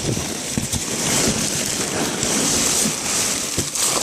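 Packaging rustling and crinkling as hands rummage through a cardboard box, with many small irregular crackles.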